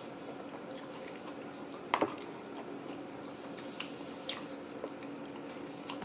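A person chewing a mouthful of food, with a sharp click about two seconds in and a few fainter clicks later, over a steady low hum.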